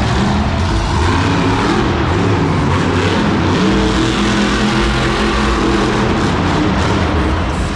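Monster truck engine running loud and revving up and down.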